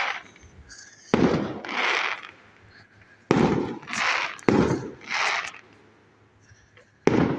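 Fireworks going off: four sharp bangs about one to two and a half seconds apart, each followed less than a second later by a higher crackling burst.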